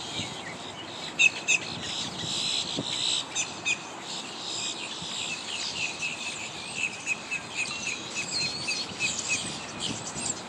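Birds chirping and twittering: many short, high calls overlapping, with a couple of louder chirps about a second in, over a steady hiss.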